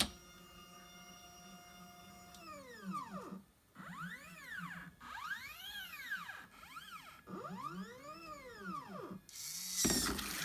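NEMA-17 stepper motors of a 3D-printed SCARA robot arm whining through a series of moves. The pitch rises as each joint speeds up, holds steady at cruise on the first long move, then falls as it slows to a stop, over a steady low hum. A louder rushing noise comes near the end.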